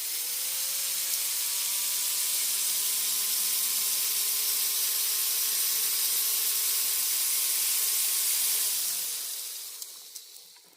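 A loud, steady hiss with a faint hum underneath, fading out near the end.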